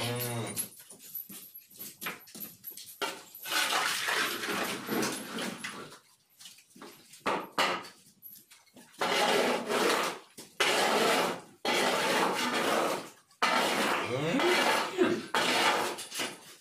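Shovel scraping manure off a barn floor in long strokes, several in a row with short pauses between them. A brief rising animal call is heard about fourteen seconds in.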